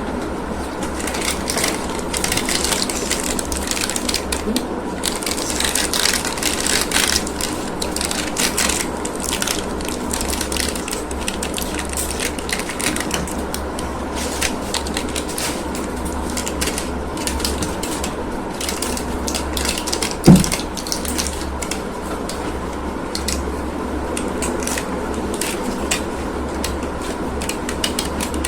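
Plastic packaging crinkling and clicking as it is handled and opened, over a low steady hum, with one sharp knock about twenty seconds in.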